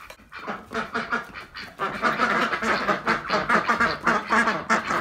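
A flock of domestic ducks quacking, scattered at first and then a dense, rapid, overlapping chorus from about two seconds in. The keeper takes the clamour as a sign the ducks are out of food.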